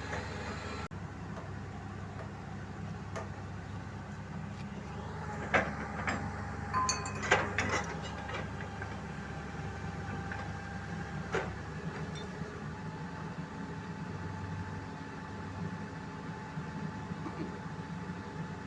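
A heavy diesel engine running steadily. A few sharp metallic clanks and knocks come in a cluster about a third of the way in, with one more a little past halfway.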